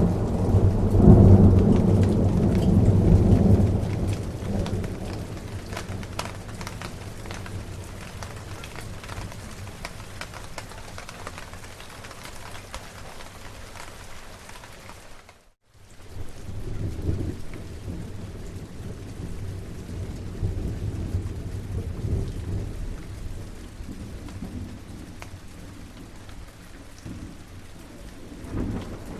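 Steady rain with thunder. A loud roll of thunder rumbles in the first few seconds and fades. The sound cuts out completely for a split second about halfway through, then the rain returns with lower, ongoing rumbles.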